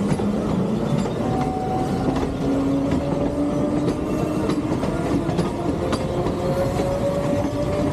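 Electric multiple-unit passenger train running past close by, its wheels clattering over the rail joints. A low whine slowly rises in pitch through the passage.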